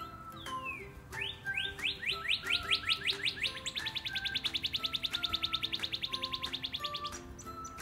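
A songbird singing: a long falling whistle, then a run of falling notes that speed up into a rapid high trill, machine-gun-like, lasting about three seconds before it stops. Background music plays underneath.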